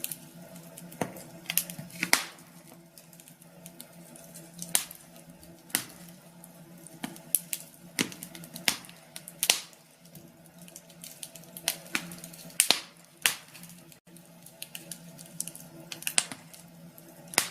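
Burning wood crackling in a cast-iron stove-fireplace: irregular sharp pops and snaps, sometimes several in quick succession, over a faint steady low hum.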